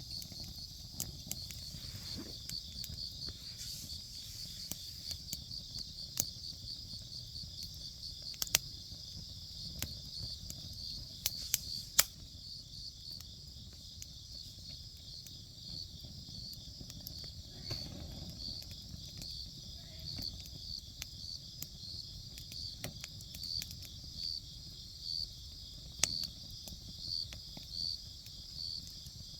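Campfire crackling and popping, with a few sharp pops (the loudest about twelve seconds in), over the steady pulsing chirp of insects.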